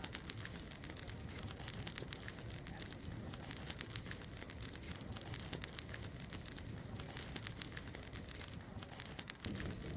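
Bonfire crackling, with frequent small irregular pops and snaps.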